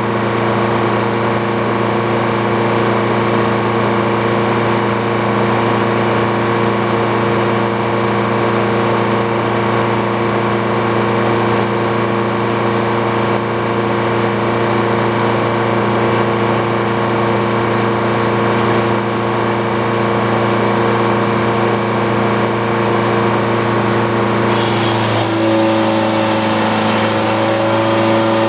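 The engine driving an old Frick sawmill running steadily under load. Its pitch rises slightly near the end.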